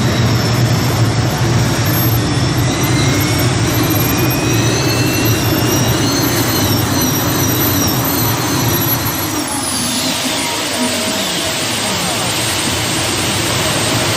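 A modified pulling tractor running hard at full power, a high wavering whine over a loud, dense engine noise. About ten seconds in the whine cuts off and the engine noise drops and winds down.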